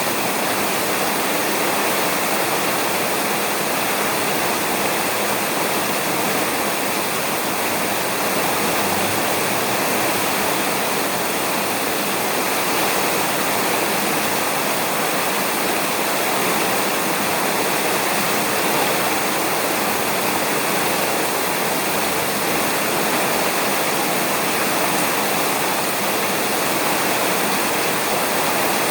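Heavy rain falling steadily on a roof, a dense, even hiss with no breaks.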